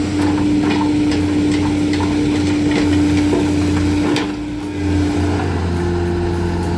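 A heavy machine's engine running steadily, its pitch stepping up slightly about five and a half seconds in, with scattered short cracks and knocks.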